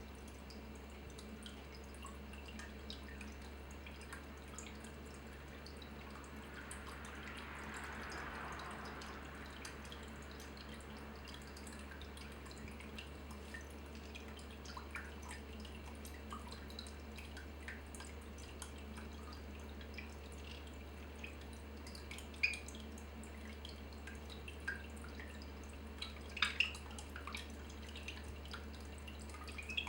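Water dripping in small, irregular drops over a steady low hum, with a soft trickle swelling briefly early on and a few sharper, louder drops or clicks near the end.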